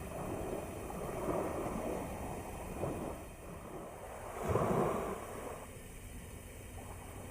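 Sea waves washing onto the shore, rising and falling, with the biggest surge about four and a half seconds in.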